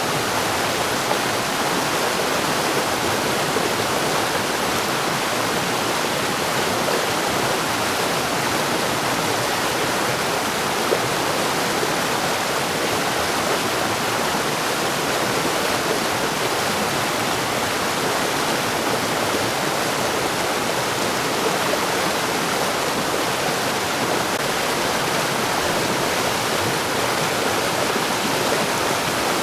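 Mountain stream rushing over rocks, a steady, even rush of water with no change.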